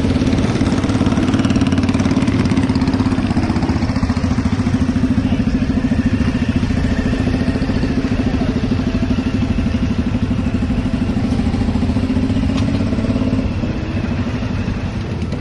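Motorcycle engine running steadily close by, a fast even beat of firing pulses; it eases a little near the end.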